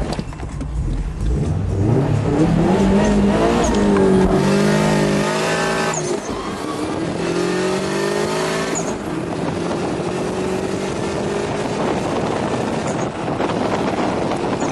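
Subaru WRX's turbocharged flat-four engine revving hard in a launch from a standstill, heard from inside the car. The pitch climbs, drops at a gear change about six seconds in, and climbs again before giving way to a steadier, noisier drone of engine and road.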